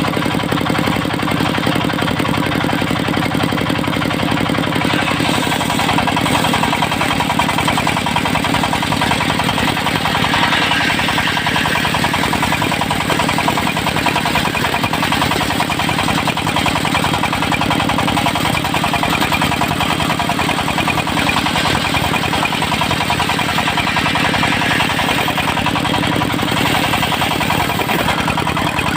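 The engine of a mobile circular sawmill running steadily under power, with the noise of the saw rig over it.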